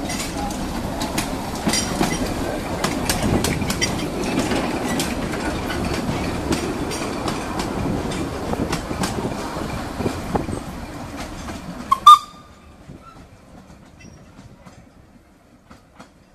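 Narrow gauge train hauled by a 1917 Kerr Stuart steam locomotive passing close by: a steady rumble with wheels clicking over the rail joints. About twelve seconds in comes one brief, sharp, loud sound, after which it is much quieter.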